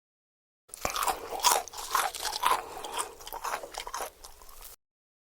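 Crunchy chewing and biting, a quick run of crackling crunches that starts about a second in and cuts off abruptly near the end.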